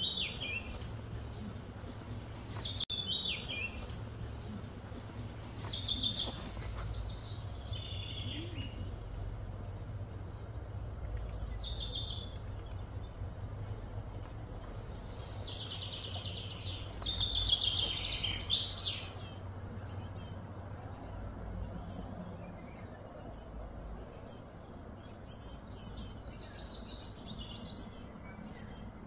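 Birds chirping and calling again and again, with a denser burst of calls a little past halfway, over a steady low outdoor hum.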